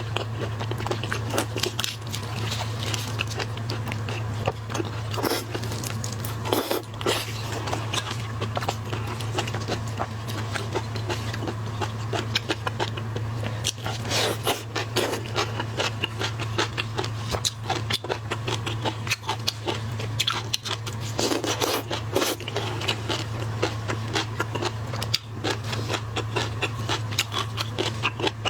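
Close-up eating sounds of shellfish: shells crackling and scraping as they are pulled apart and peeled, with biting and chewing, a dense run of small irregular clicks over a steady low hum.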